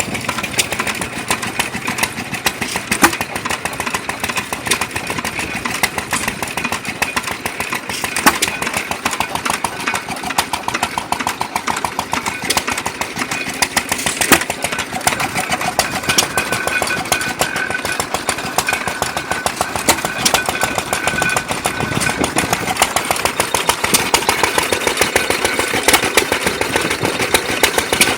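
Antique hit-and-miss gas engines running, a steady, rapid stream of exhaust pops.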